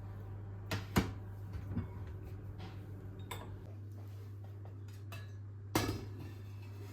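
Sharp clinks and knocks of objects being handled, the loudest about a second in and again near six seconds, over a steady low hum.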